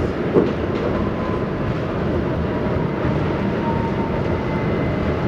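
R68 subway train running along the track: a steady rumble with a single clunk about half a second in and a faint thin squeal through the middle.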